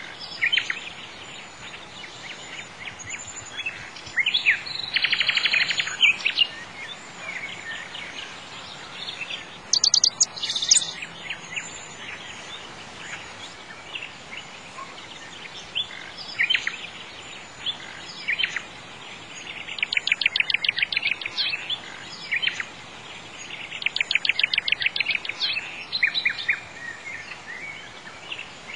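Songbirds chirping and singing, with several rapid trills (near the start, about a third of the way in, and twice in the last third) and a few high sharp chirps in between, over a steady faint background hiss.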